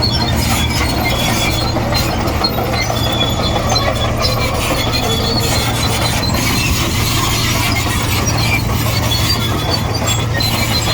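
Komatsu D58E bulldozer working: the diesel engine runs steadily under load while the steel tracks give short, high metallic squeaks.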